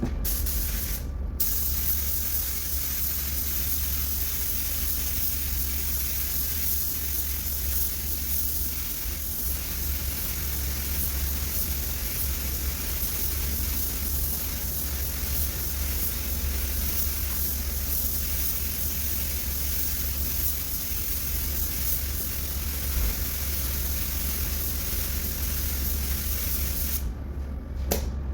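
Compressed-air paint spray gun hissing steadily as paint is sprayed on the bus panel; it starts about a second in and cuts off near the end, over a steady low hum.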